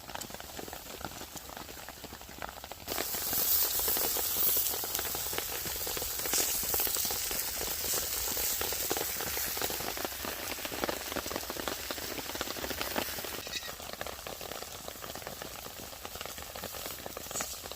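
Burger frying in a pan on a wood-burning camp stove: a crackling sizzle that jumps suddenly louder about three seconds in and eases back a little after thirteen seconds.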